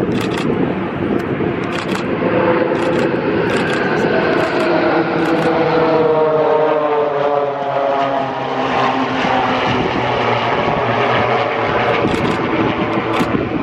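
Propeller aircraft flying past the crowd line, its engine loud and steady, with the pitch sliding down in the middle as it goes by.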